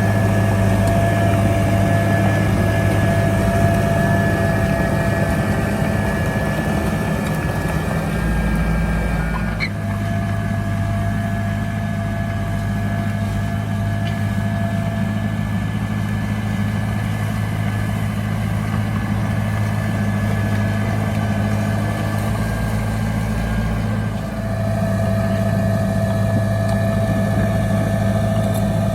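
Heavy earthmoving machine's diesel engine running steadily, with a steady whine over its low drone. The sound dips briefly about ten seconds in and again near the twenty-four second mark.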